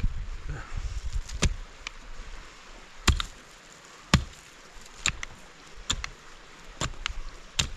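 Sharp blows of a hand tool, repeated about once a second.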